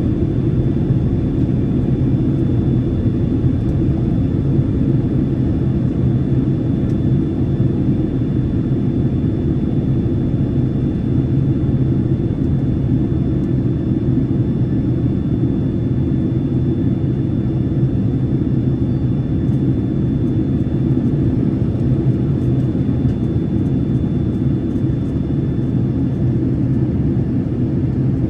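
Steady cabin noise of an airliner in cruise: a constant low rumble of engines and airflow with a faint high steady whine, unchanging throughout.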